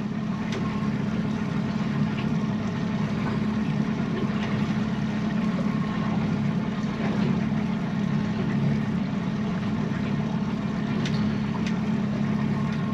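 An engine running steadily at an even speed, a low constant hum, with a few faint clicks over it.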